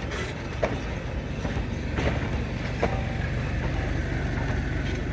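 Narrow-gauge train running, a steady low rumble with a few short metallic clanks and squeaks, about half a second, two and three seconds in.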